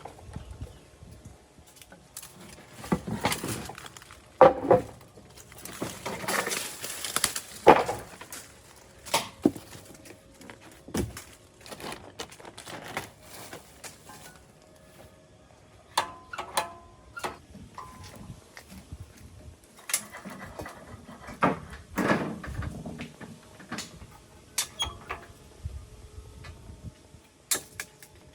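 Workshop handling noises from hand work on the old blade grinder: irregular knocks, clanks and clicks, with stretches of scraping and a brief ringing tone about halfway through.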